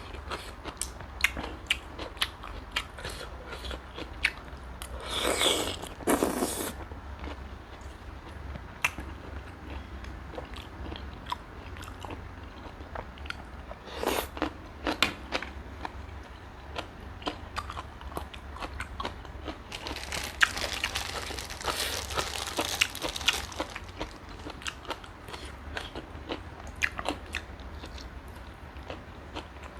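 Close-miked eating: a person biting and chewing giant river prawn, with many short crunches and wet clicks. There are two longer noisy stretches, one about five seconds in and one from about twenty to twenty-three seconds in.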